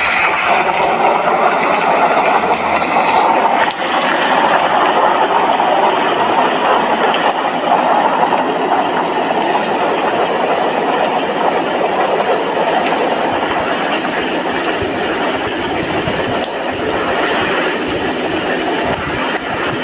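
Steady rain falling outside an apartment window: a constant, even rushing hiss.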